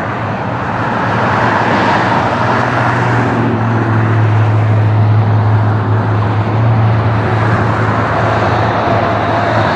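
IAE V2500 jet engines of an Airbus A321-231 running, a loud, steady rushing noise with a constant low drone underneath.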